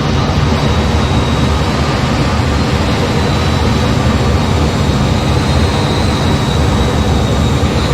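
F-15 jet noise in flight: a steady, loud rush of engine and airflow, heaviest in the low end, with a faint steady high whine over it.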